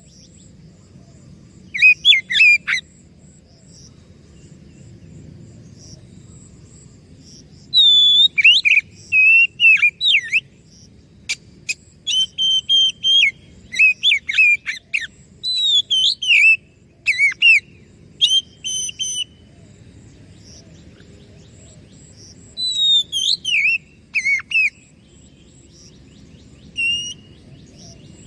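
Oriental magpie-robin (kacer) singing: clusters of quick, varied whistles and chirps that sweep up and down, broken by pauses of a few seconds, over a faint low hum.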